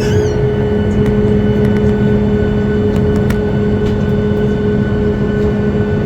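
Steady cabin noise inside a Boeing 737-8200 on the ground with its engines running, an even rushing noise with a constant low hum.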